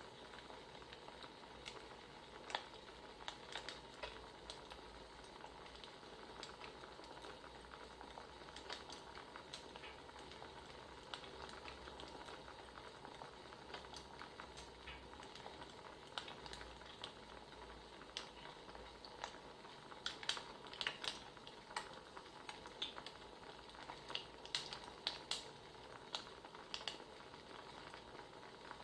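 Faint crackling of a wood fire: a steady hiss with irregular sharp pops and snaps, coming in quick clusters about two-thirds of the way through and again near the end.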